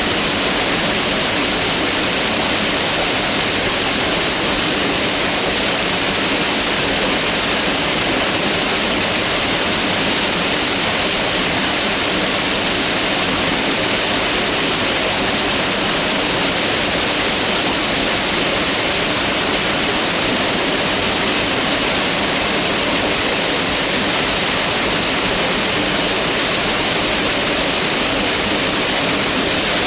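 Mountain river rushing over rocks: a steady, loud water sound with no breaks or changes.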